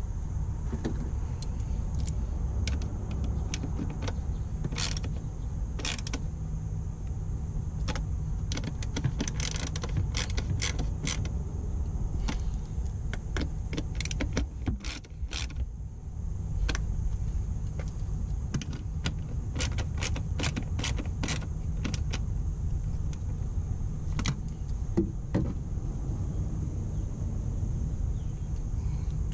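Hand ratchet clicking in short irregular runs while the 8 mm bolts of a crankcase filter cover are tightened, over a steady low rumble.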